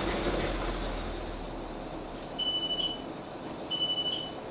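Class 458 electric train's running rumble dying away as it comes to a stop, then, about two seconds in, a high electronic beep sounding twice about 1.3 seconds apart: the door-release alert signalling that the doors are released at the platform.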